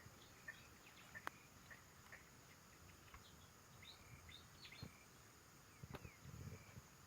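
Faint bird chirps: short, high notes repeated irregularly over quiet background noise, with a few soft clicks.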